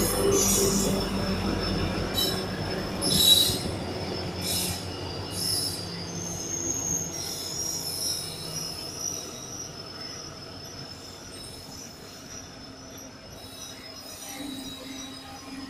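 A diesel locomotive passes with its engine rumbling, the rumble fading over the first couple of seconds. Then the passenger coaches roll by with sharp, repeated brake and wheel squeals, the loudest about three seconds in. The noise dies down steadily as the arriving train slows.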